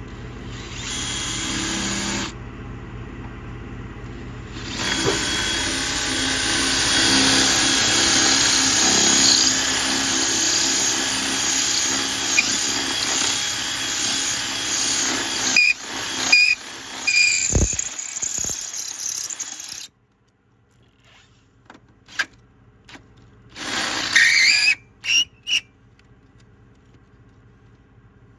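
A handheld power tool running in one long stretch, then in short bursts, stopping suddenly partway through; after a quiet spell with a few clicks come a few more short bursts.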